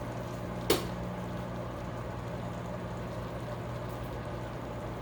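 Steady low electrical hum in a kitchen, with a single sharp click or knock less than a second in.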